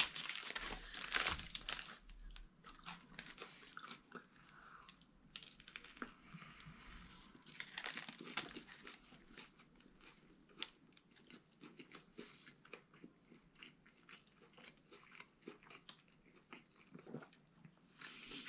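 A person biting into and chewing a sub sandwich close to the microphone: quiet, irregular crunching and mouth clicks.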